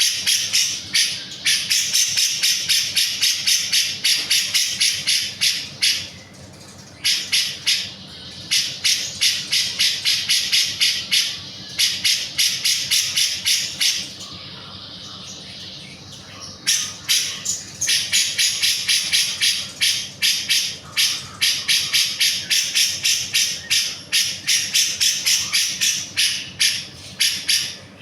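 Grey-cheeked bulbul (cucak jenggot) singing energetically. It gives long bouts of rapid, sharp repeated notes, several a second, broken by short pauses.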